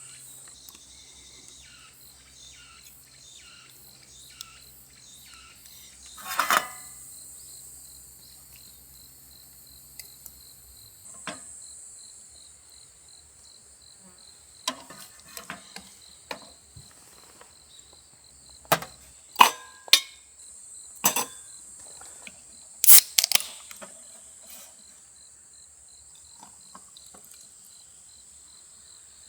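Crickets chirping steadily, with scattered sharp clinks and knocks of utensils on dishes and pans, most of them bunched together about two-thirds of the way in. A faint low hum underneath stops about a third of the way in.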